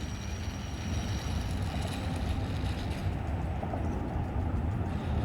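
Wind buffeting the microphone as a steady low rumble, with the thin high whine of a radio-controlled airplane's motor during takeoff, fading after about a second and a half.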